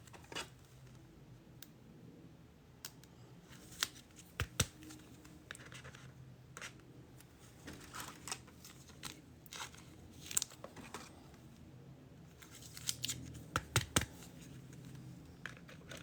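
Trading cards and foil pack wrappers being handled: scattered faint clicks, scrapes and crinkles, with a quick cluster of sharper clicks about thirteen seconds in.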